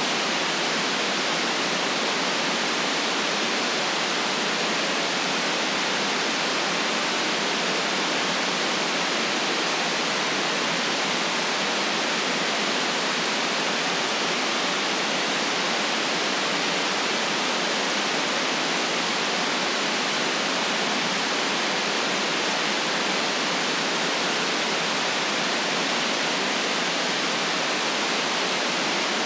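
Steady, unchanging synthetic white noise: an even hiss with no lows and a sharp top near 8 kHz, for relaxation or sleep.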